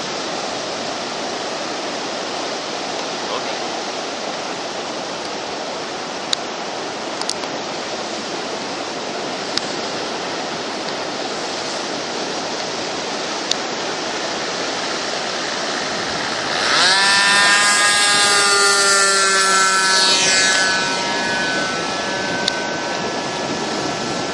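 Steady rush of strong wind. About two-thirds of the way through, the engine of an Águia 60 radio-control model airplane comes in loud as the plane passes close by, its pitch dropping as it goes past, then fades back into the wind.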